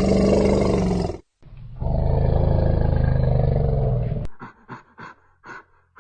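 Animal calls: two long, loud, deep calls, the second lasting about two and a half seconds, then a quick run of short, higher calls near the end.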